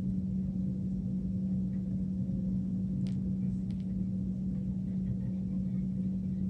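A steady low hum over a faint rumble, even in level throughout, with a few faint clicks about three seconds in.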